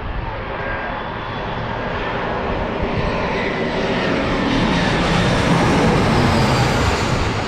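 SkyWest Embraer regional jet's twin turbofans on landing approach, a jet rumble and hiss that grows louder to a peak about six seconds in, with a faint whine falling in pitch as it passes.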